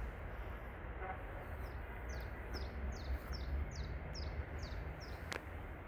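A small songbird singing a quick series of about ten short, high, down-slurred notes, roughly three a second. A steady low rumble runs underneath, and there is a single sharp click near the end.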